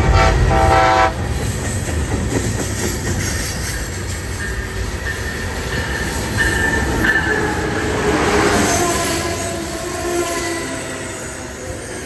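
Train horn sounding a chord that cuts off about a second in, followed by the steady rumble of a passing train with brief high-pitched wheel squeals in the middle.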